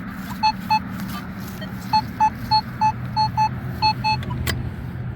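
Nokta Legend metal detector giving short, same-pitched target beeps, about eleven of them, single and in pairs as the coil sweeps back and forth over a dime-like target reading 41–42. The beeps stop about four seconds in, and there is steady low wind rumble on the microphone throughout.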